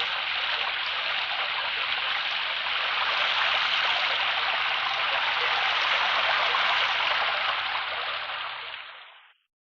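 A steady rushing hiss from a sound-effects record, swelling slightly in the middle, then fading out to silence about nine seconds in.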